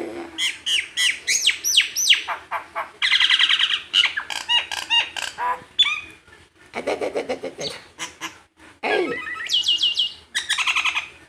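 Tame pet bird calling: a run of quick falling whistles, a fast trill in the middle, and lower, harsher squawks about two-thirds of the way through and near the end.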